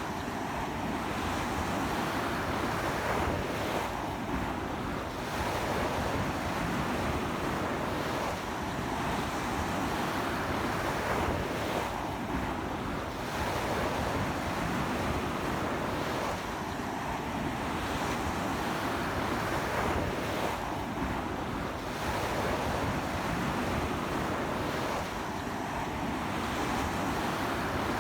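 Sea waves breaking and washing up a beach in strong wind: a continuous surf rush that swells and eases every few seconds, with wind buffeting the microphone.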